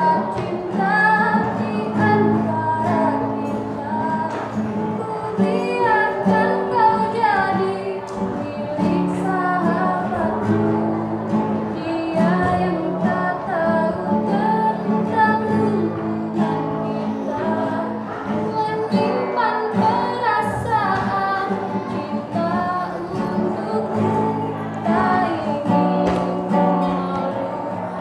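Female voices singing a melodic song with guitar accompaniment.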